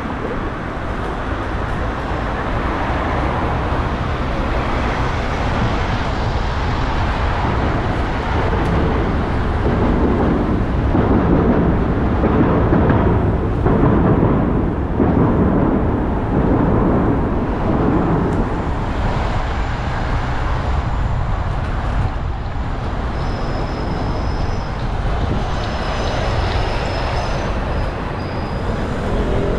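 Steady rumble of road traffic mixed with wind and riding noise on a bicycle-mounted camera, swelling louder for a few seconds around the middle.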